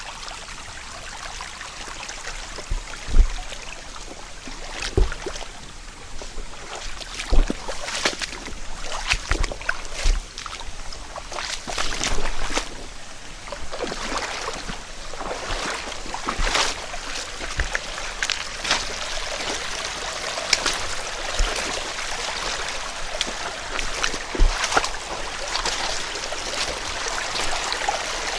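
Mountain headwater stream babbling and splashing over rocks, with a dozen or so brief low thumps scattered through it.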